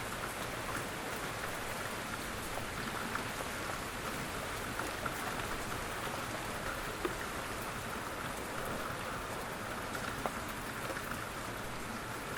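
Steady, quiet rain falling, with scattered individual drops ticking now and then.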